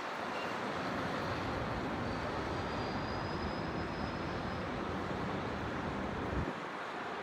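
Distant city traffic noise, a steady hum, with a deep low rumble that stops suddenly about a second before the end.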